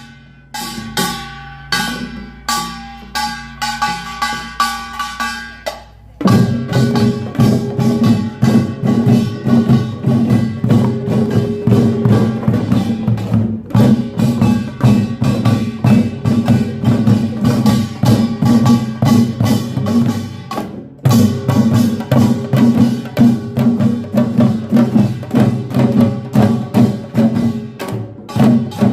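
Korean pungmul farmers' band playing: fast drumming under clanging, ringing gongs. The beats are sparser at first, the full band comes in loudly about six seconds in, and it breaks off briefly about two-thirds through before resuming.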